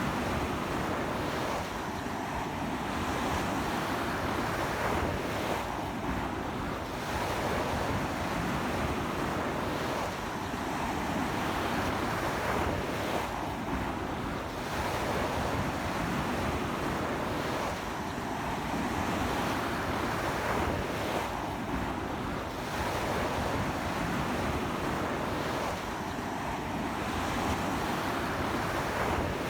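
Sea waves breaking continuously on a beach in strong sea wind, a steady wash of surf that swells and eases every few seconds.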